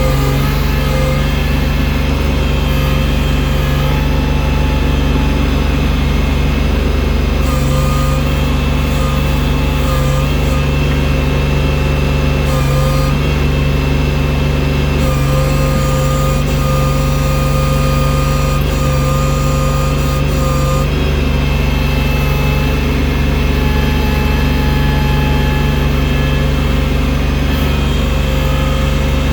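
Engine of a snow-clearing tractor with a front bucket, running steadily. Thin whining tones above the engine drone step up and down every few seconds.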